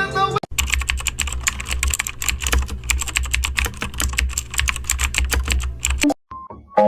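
Fast, continuous computer-keyboard typing over a steady low hum, stopping abruptly near the end.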